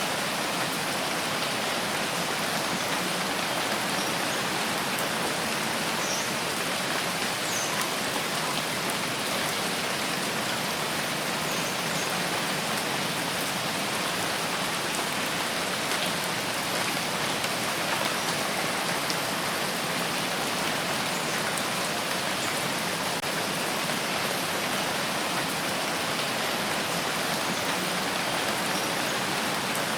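Steady rain falling, an even hiss with scattered small drip ticks on top.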